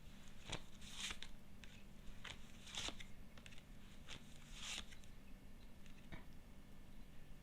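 Tarot cards being drawn and laid down: faint, brief swishes of card on card or on the table, about one every two seconds, with a few small taps between.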